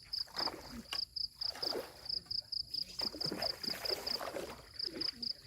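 An insect chirping steadily in even, high-pitched pulses, about six a second, under irregular louder rustling and knocking.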